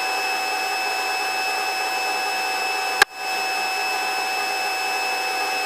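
Helicopter cabin noise in flight heard through the intercom: a steady hum with several steady whining tones over it. About three seconds in, a sharp click and a brief drop in level, like the intercom keying, before the same steady noise returns.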